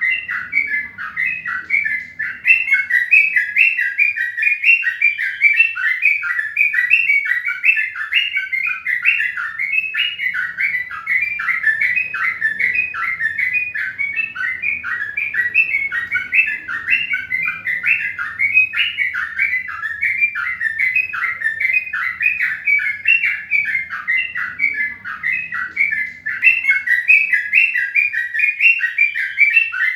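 Birds chirping without a break, a dense stream of short, quick chirps.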